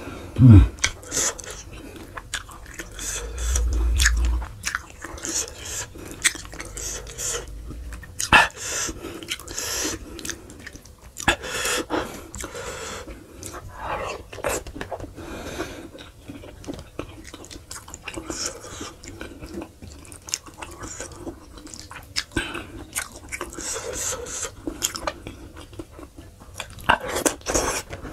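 Close-miked chewing and biting of sheep's head meat eaten by hand, with many wet mouth clicks and lip smacks. About three seconds in there is a dull low rumble lasting a second or so.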